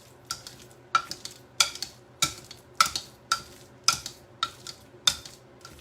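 A kitchen utensil knocking against a mixing bowl while mashing avocado for guacamole: evenly paced strokes, a bit under two a second, each with a short ring of the bowl.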